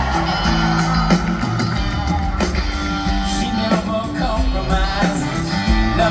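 A rock band playing a song, with a singer and guitars.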